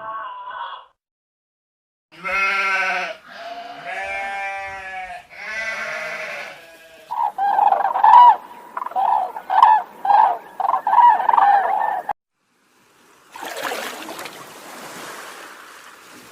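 Livestock bleating: three drawn-out wavering calls, then a quick run of about ten short calls. Near the end comes a stretch of rough, breathy noise.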